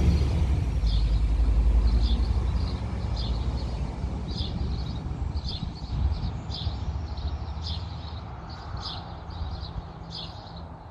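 A passing bus rumbling and fading as it drives away. Birds chirp repeatedly throughout, in short high notes about once or twice a second.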